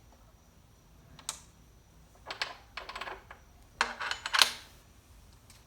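Small metal parts clicking and clattering: the table saw's arbor nut and washer being taken off the blade arbor and handled. A single click comes about a second in, then two quick clusters of clinks around two and a half and four seconds in.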